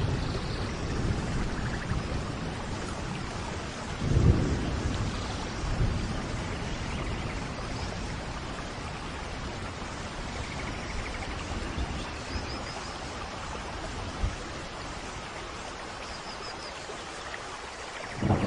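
Steady rain with low rolls of thunder. The strongest roll comes about four seconds in, a smaller one follows near six seconds, and another starts right at the end.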